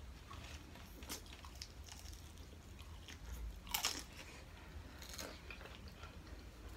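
Close-up biting and chewing of a fried crab rangoon: soft crunches and mouth sounds, with a sharper crunch about four seconds in.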